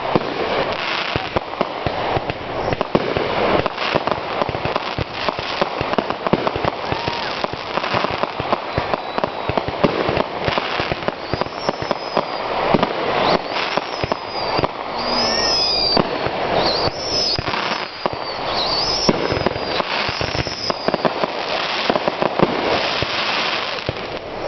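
Fireworks finale: a continuous barrage of aerial shells bursting and crackling. In the middle stretch, high whistles glide up and down over the bangs.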